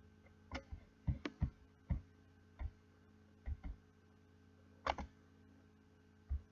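Irregular sharp clicks and knocks, about a dozen, some with a dull low thud; the loudest comes about five seconds in. A faint steady hum lies underneath.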